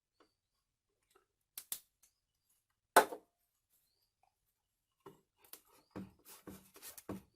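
Handling noises: a few light clicks, one sharp knock about three seconds in, then a run of irregular clicks and taps near the end.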